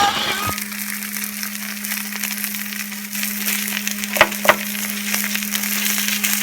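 Takoyaki sizzling in an oiled takoyaki pan: a dense crackling hiss, with two light clicks about four seconds in. A steady low hum runs underneath.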